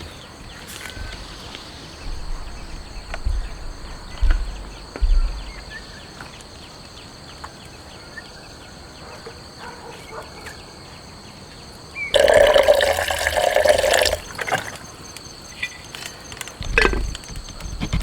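Water splashing or pouring in a loud burst of about two seconds partway through, with a shorter one near the end and a few soft low thumps earlier, over a faint steady hiss.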